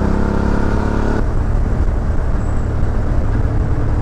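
Suzuki V-Strom 650 XT's 645 cc V-twin engine running while riding, under a layer of wind and road noise. A higher engine note drops out suddenly about a second in, leaving the low hum.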